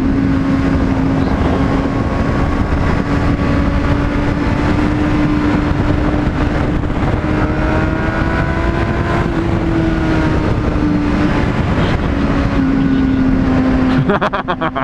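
Honda CBR600RR engine running at a steady cruise, its note rising a little midway and easing back, under heavy wind rush on the microphone.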